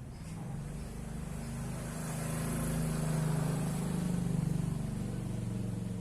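A motor vehicle passing: a low engine hum that grows louder, peaks around the middle and fades again.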